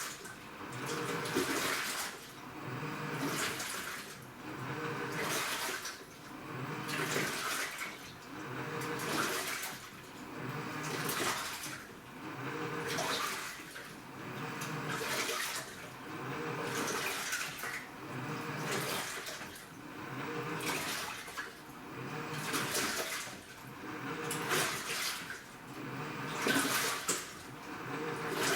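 AQUA washing machine with a direct-drive inverter motor in its wash cycle, churning water in regular strokes about every two seconds. Each stroke rises and falls with a motor hum under the sloshing.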